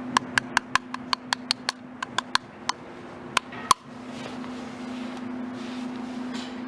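A quick run of small, sharp metallic clicks, each with a brief ring, about five a second at first, then slowing and stopping a little over halfway through. A steady low hum runs underneath.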